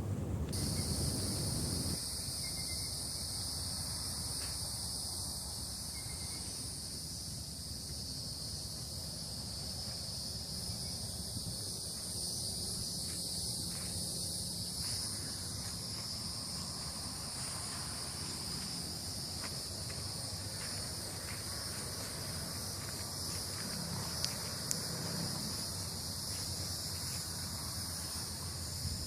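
Steady chorus of insects, a continuous high-pitched buzz that starts about half a second in and holds level, over a low rumble.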